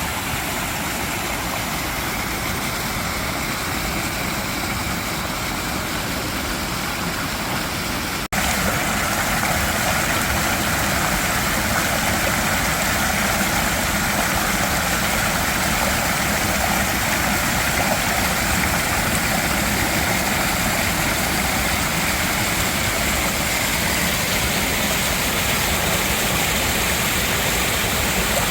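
Mountain valley stream with water rushing steadily over rocks. It cuts out for an instant about eight seconds in and comes back a little louder.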